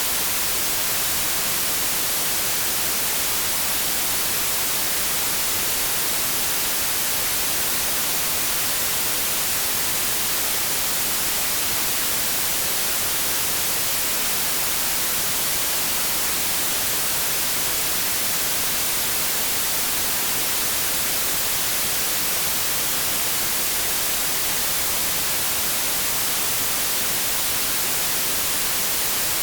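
Steady electronic white noise: an even, unchanging hiss, brightest in the treble.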